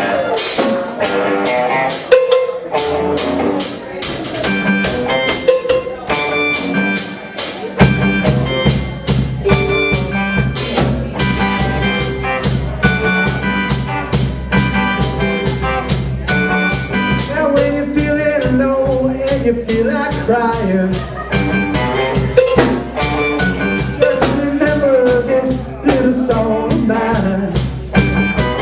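Live rock band playing an instrumental passage, with steady drum-kit beats over guitar. A heavy low end comes in about eight seconds in.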